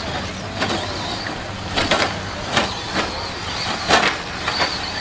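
2WD radio-controlled short-course trucks racing: a steady high motor whine and running noise, broken by about seven sharp, irregularly spaced clacks.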